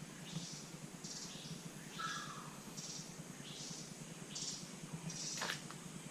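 Rainforest birds calling: short high chirps repeating every half second or so, with a lower falling call about two seconds in. A sharp click sounds about five and a half seconds in.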